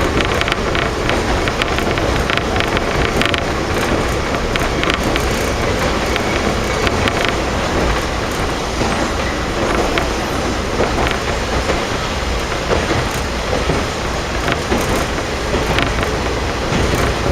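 KiHa 52 diesel railcar running along the line: a steady drone of its twin DMH17 diesel engines and wheels on the rails, with scattered sharp clicks from the wheels.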